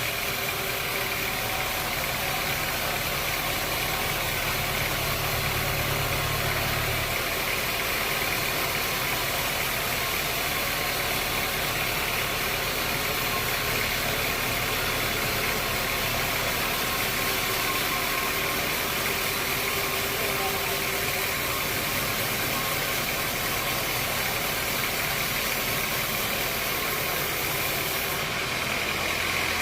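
Sawmill machinery running steadily with an engine-like hum. A deep low part of the sound drops away about seven seconds in, while the rest runs on.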